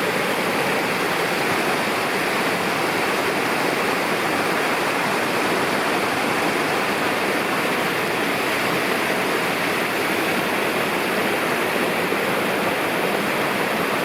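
A mountain river rushing close by, a steady, loud, unbroken water noise.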